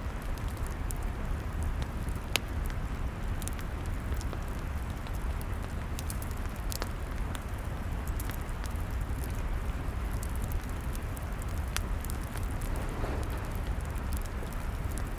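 Log fire burning: a steady low rumble of flames with irregular crackles and sharp pops from the wood, one louder snap about two seconds in.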